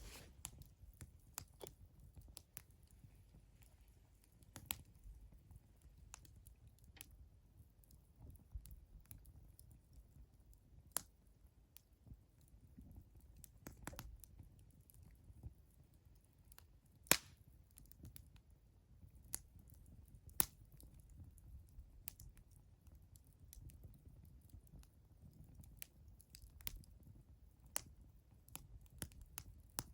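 Wood fire crackling: scattered sharp pops and snaps at irregular intervals over a faint low rumble, with two louder pops past the middle.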